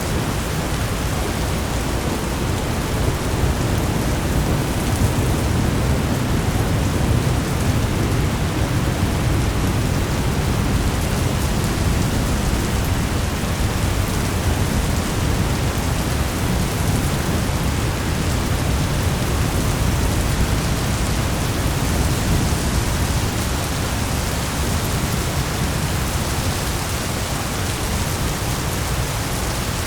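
Thunderstorm ambience: steady hiss of heavy rain with a continuous low rumble underneath.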